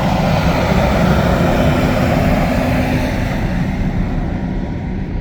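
Diesel engine of a 6x6 articulated dump truck running loud and steady, a low engine hum under a broad rush of noise; the higher part of the noise dies down over the last couple of seconds.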